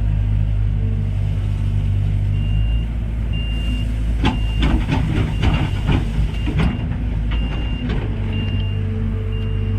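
Heavy diesel machinery running steadily, with a reversing alarm beeping about once a second from about two seconds in. Between about four and eight seconds in comes a run of clattering knocks, typical of a bucketload dropping into a tipper truck's steel body.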